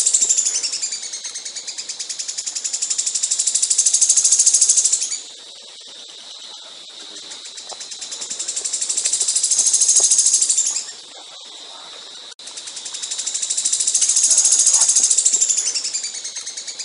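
A songbird's rapid, high buzzing trill in phrases about five seconds long, each dipping briefly in pitch partway through, repeated the same way three times with short pauses between. There is a sharp click about twelve seconds in.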